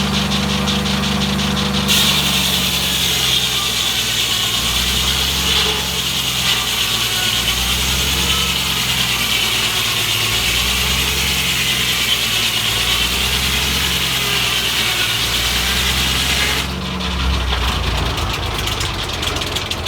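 A 48-inch circle blade on a Foley Belsaw M-14 sawmill ripping a board from a log, the cut starting about two seconds in and ending a few seconds before the end, over the steady run of the engine driving the mill. The owner thinks this blade is warped and out of balance.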